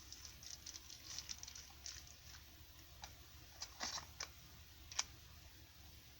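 Faint light rustles, taps and clicks of hands handling a smartphone and its packaging, with a sharper click about five seconds in.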